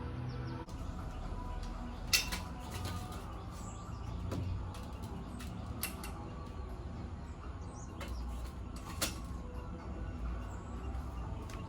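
Demolition work: a handful of sharp knocks and creaks, spaced a couple of seconds apart, over a steady low rumble.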